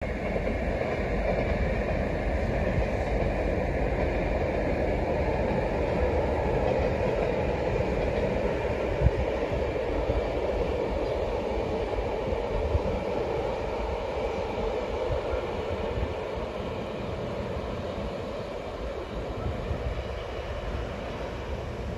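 Taiwan Railways Fu-Hsing passenger train running over a distant viaduct: a steady rumble that slowly fades as it moves off. A single sharp knock about nine seconds in.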